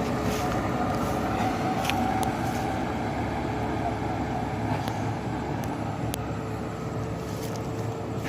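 Loaded dump truck's diesel engine and tyres passing in a steady drone with a faint held whine, easing off slightly toward the end.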